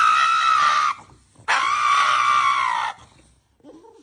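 Two long, high-pitched screams, each about a second and a half long, the second starting about half a second after the first ends.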